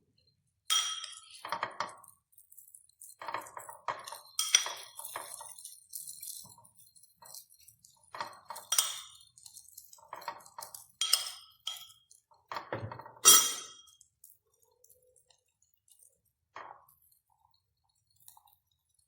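Tableware clinking and clattering in a string of short, ringing knocks, the loudest about thirteen seconds in, then only a few faint ticks.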